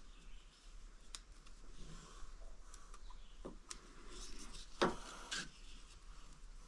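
Light handling noises: a few scattered clicks and knocks with faint rubbing, the loudest knock about five seconds in, followed by a second one.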